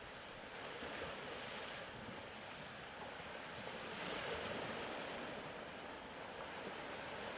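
Soft ocean surf: a steady faint hiss of waves that swells twice, about a second in and again around four seconds.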